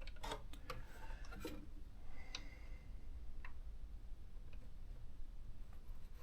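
A quick cluster of clicks and taps, then single sharp clicks about a second apart: fingers working the switches and keys of an electronic typewriter.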